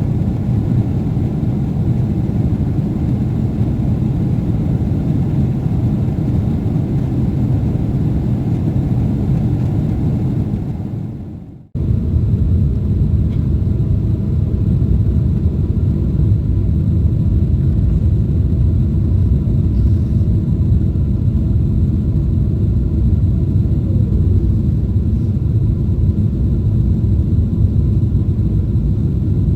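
Steady rumble of jet engines and rushing air heard inside the cabin of a Boeing 777-300ER in flight. It fades away just before 12 s, breaks off sharply, and the same rumble comes straight back.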